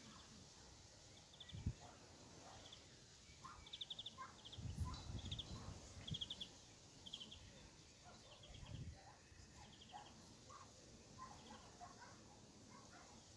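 Quiet outdoor ambience with a small bird giving short, rapidly trilled chirps that repeat irregularly, and a few low rumbles on the microphone in the middle.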